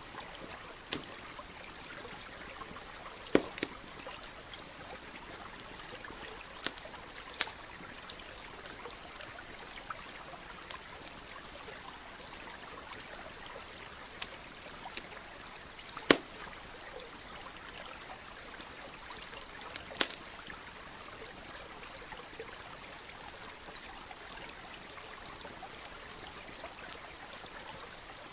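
Steady rush of a flowing stream with a campfire crackling over it: scattered sharp pops, a few louder snaps among them, thinning out in the last third.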